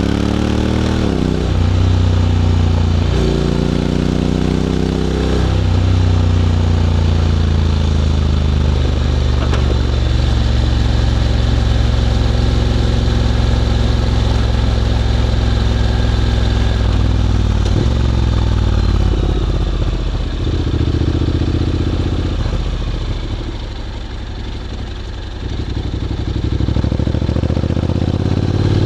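Honda X-ADV 750's parallel-twin engine through an SC-Project titanium slip-on exhaust, heard while riding. Near the start it revs up and drops in pitch three times as the automatic gearbox shifts up. It then runs steadily at cruising speed, eases off and quietens past halfway, and revs up again near the end.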